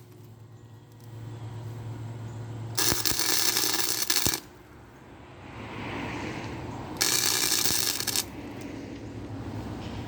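Wire-feed welder laying two short bursts of weld, each about a second and a half of crackling arc, on thin lawnmower-handlebar tubing, run in short stints because the thin metal burns through easily. A low steady hum runs underneath.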